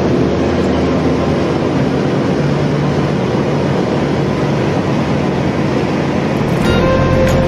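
Small two-row corn harvester running under load, a steady dense engine and machinery noise with faint steady tones; the low hum shifts about a second before the end.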